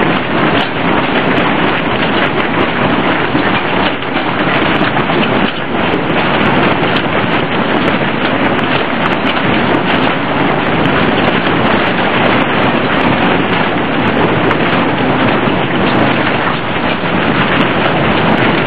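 Arctic gale of about 130 km/h battering a tent: a loud, unbroken rush of wind with frequent short snaps from the fabric.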